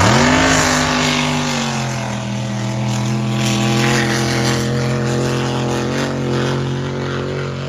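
Racing drag boat's engine launching at full throttle: the pitch sweeps up sharply right at the start, then holds a steady, loud note as the boat runs down the course.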